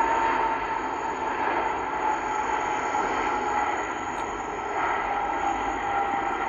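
Jet airliner's engines running as it passes, a steady rushing noise with a whine that slowly falls in pitch.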